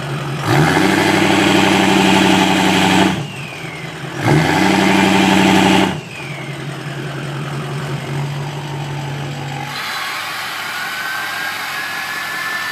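Ford Power Stroke turbo-diesel with an 8-inch cat stack idling, then revved hard twice for about two seconds each, the turbo whistle falling away as it drops back to idle. Near the end the engine note drops lower and a faint high whine slowly rises.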